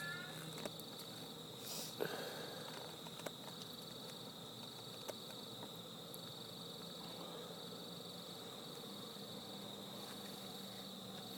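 Crickets trilling in a steady high chorus that pulses on and off, with a faint low hum underneath and a few scattered clicks.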